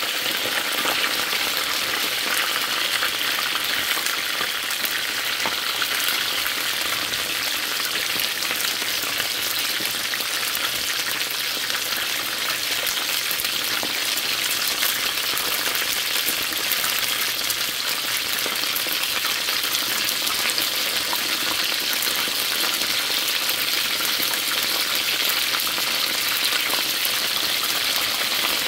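Chicken wings frying in hot oil: a steady, dense sizzle and crackle that runs on without a break.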